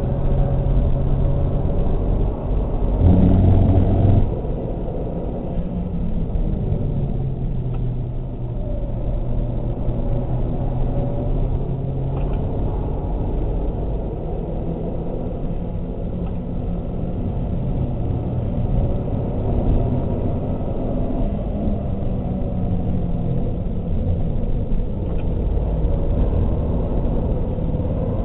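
Mazda 3 MPS's turbocharged 2.3-litre four-cylinder engine under hard driving, heard from inside the cabin with road and tyre rumble. The engine note rises and falls as the driver accelerates and brakes. About three seconds in there is a louder rumble lasting about a second.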